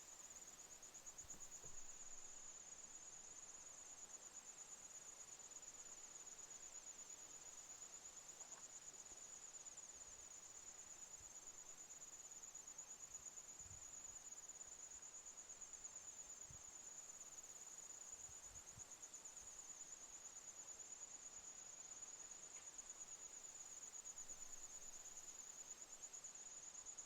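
Insects chirring steadily: one continuous, faint, high-pitched trill that pulses rapidly without a break.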